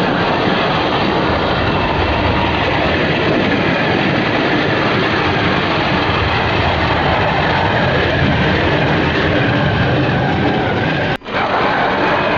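Axial SCX10 Dingo 1/10-scale RC truck on tracks driving through mud: steady running noise of the tracks and electric drivetrain, broken by a brief dropout near the end.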